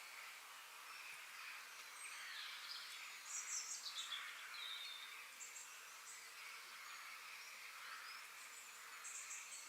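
Faint nature ambience: birds chirping and twittering over a steady background chorus, with a louder flurry of high chirps about three and a half seconds in and another near the end.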